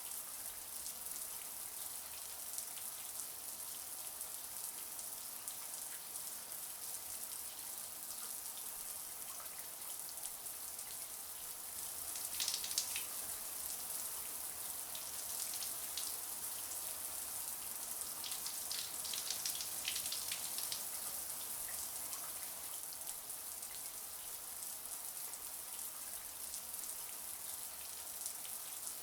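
Shower running: a steady hiss of spraying water pattering on a surface, with two brief stretches of louder spattering, the first about twelve seconds in.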